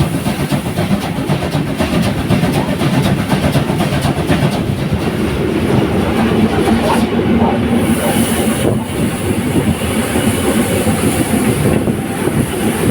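Steam train rolling along the track, its wheels clicking over the rail joints with a steady run of rumble and hiss.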